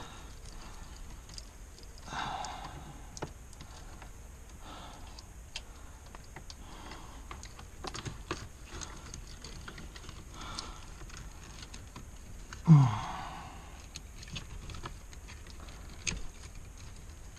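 Scattered light clicks and rattles of small plastic connectors and wiring being handled while a dash cam's wiring is unplugged from a car interior, with a louder brief sound of falling pitch about thirteen seconds in.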